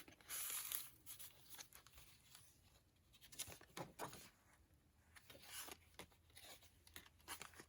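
Faint, brief rustles of paper and card being handled and rubbed, a few scattered soft scrapes against near silence.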